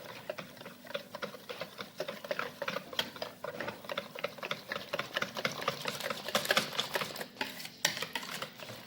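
Semolina batter being stirred briskly in a bowl, a fast, irregular clatter of the mixing utensil against the bowl.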